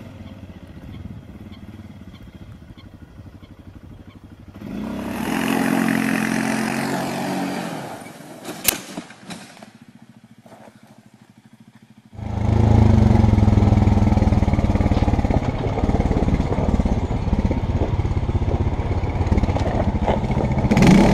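ATV (quad bike) engines across several short clips: a faint engine running, then a louder stretch of engine noise from about five seconds in and a single sharp knock near nine seconds. From about twelve seconds in a quad's engine runs loud and steady, close up from the rider's helmet camera.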